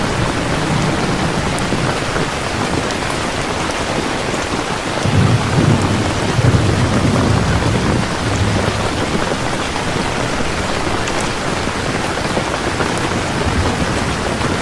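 Heavy, steady rain pouring down, with a low rumble of thunder swelling about five seconds in and fading by about eight seconds.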